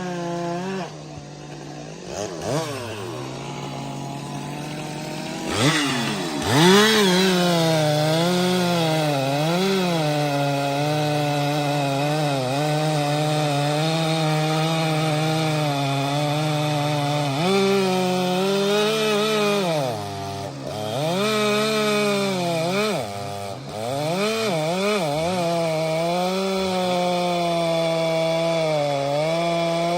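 Stihl MS 462 C-M two-stroke chainsaw cutting firewood: it sits at a low pitch for a couple of seconds, revs up and down several times, then runs at a steady high pitch through the cut. The revs drop briefly twice in the second half before it holds steady again.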